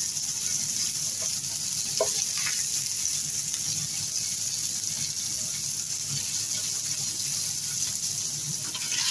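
Sliced onions and garlic sizzling steadily in oil in a nonstick pan, stirred now and then with a wooden spatula, as the onions are sautéed to bring out their aroma and juice.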